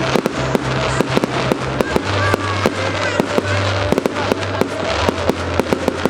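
Fireworks display: a rapid, irregular string of sharp bangs and crackles from exploding shells, several a second.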